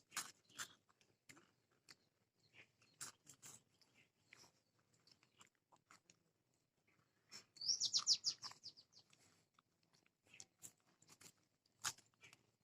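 Crisp salted biscuits crunching as they are chewed, in a scatter of small sharp crackles. About seven and a half seconds in, a bird gives a quick run of falling chirps, the loudest sound here.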